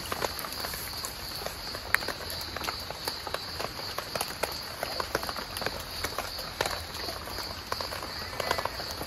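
Rain falling on a tent flysheet: irregular sharp drops and drips pattering on the fabric.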